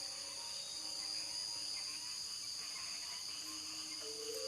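A steady night chorus of crickets and other insects, a constant high chirring. Near the end a faint low steady tone comes in under it.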